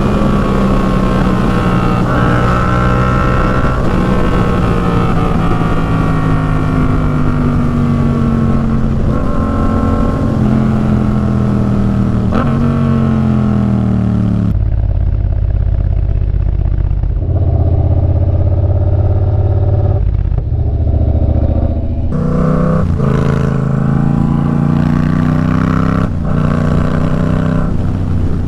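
Yamaha MT-07's parallel-twin engine through an Arashi aftermarket exhaust while riding, its pitch rising and falling in steps through the gears. About halfway the hiss above it drops away and the engine runs low and steady for several seconds, then it pulls away again.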